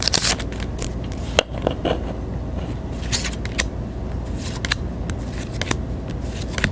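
Pokémon trading cards being handled and flipped through: irregular soft flicks and rustles of card stock, with one sharper click about a second and a half in, over a steady low hum.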